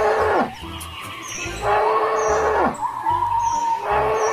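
Recorded cattle moo sound effect looped over background music. Each call lasts about a second, ends with a falling pitch, and repeats about every two seconds.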